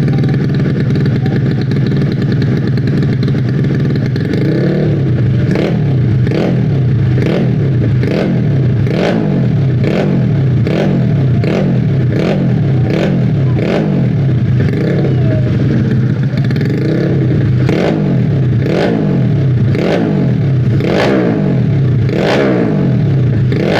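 155cc motorcycle engine with a drag-style exhaust, idling and then, from about four seconds in, blipped on the throttle again and again: short revs roughly every half second, each dropping straight back.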